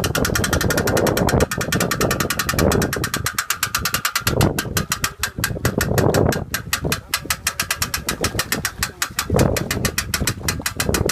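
Vikhr two-stroke outboard motor on a small motor boat running, with a fast, even beat whose level swells and falls.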